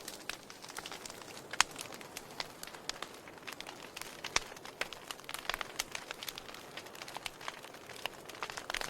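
Wood fire crackling: frequent, irregular sharp pops and snaps over a soft hiss, with one louder pop about a second and a half in.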